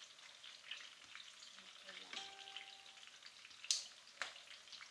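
Long green chili peppers sizzling and crackling as they fry in a nonstick pan, with two sharp clicks about three and a half and four seconds in as the tongs knock against the pan.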